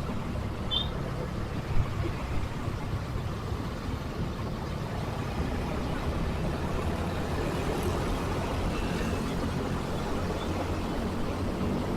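Motorcycle riding through heavy city traffic: its engine runs steadily under the rumble of the surrounding traffic. A short high chirp comes about a second in, and a brief bump just before two seconds.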